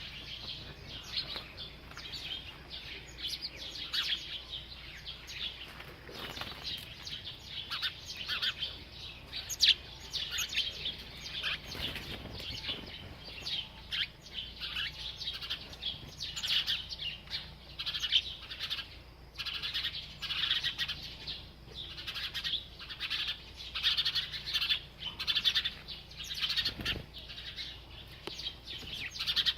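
A bird chirping continuously in quick, high, sharp notes, several a second, with no real pause.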